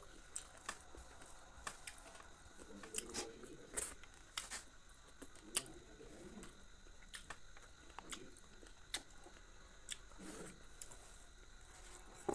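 A person chewing and biting chicken, with irregular sharp mouth clicks and smacks.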